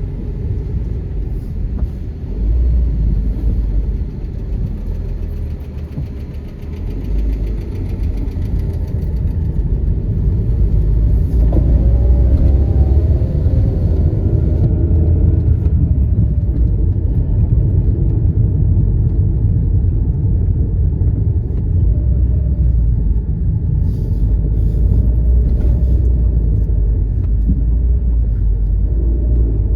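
A car driving, heard from inside the cabin: a steady low engine and road rumble that grows louder about a third of the way in.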